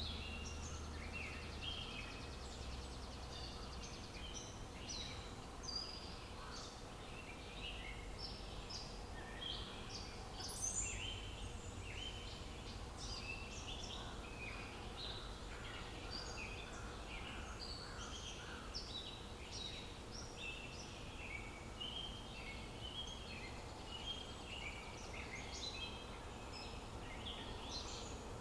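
Many songbirds chirping and singing at once in dense, overlapping short calls and trills, over a faint low rumble.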